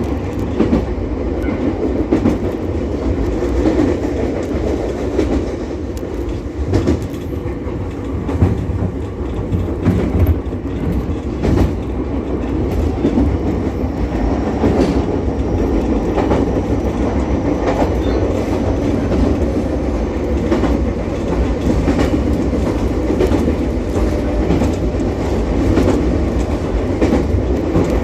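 Ichibata Electric Railway 7000-series electric railcar running along the line: a steady rumble with wheel clicks over the rail joints.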